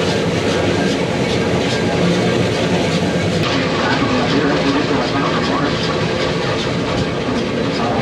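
Mount Washington Cog Railway train climbing: a steady, loud rumble and clatter with regular clicks about three a second.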